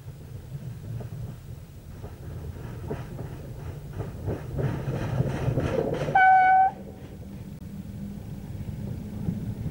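Passenger train wheels rolling slowly over the rails, growing louder with a run of clicks over rail joints. About six seconds in, a short, loud single-note train horn blast that cuts off abruptly, followed by a steadier, quieter diesel locomotive engine hum.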